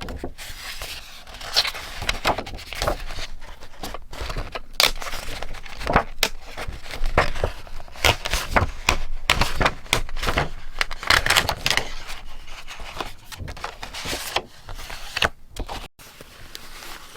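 Paper being handled for journal scrapbooking: irregular rustling and crinkling with sharp clicks and taps scattered through.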